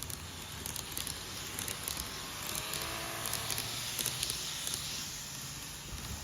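Odakyu electric train running, with a steady rumble of wheels and a faint traction-motor whine rising in pitch about two to three seconds in. The uploader counts this motor whine as abnormal noise.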